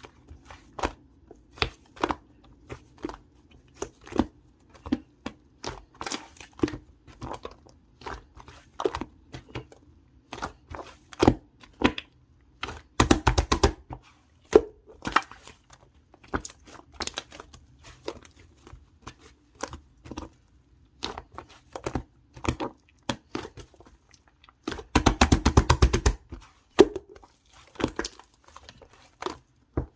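Pink pearl slime being squished and folded by hand: a steady run of sticky clicks and pops, with two bursts of rapid crackling near the middle and near the end.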